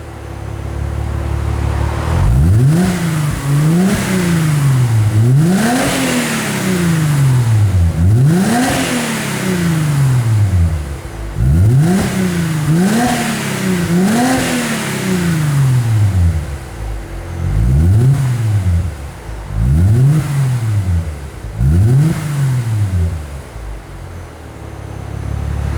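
2008 Mercedes-Benz C300's 3.0-litre V6 through an aftermarket exhaust, blipped from idle about ten times, each rev rising quickly and falling back, then settling to idle near the end.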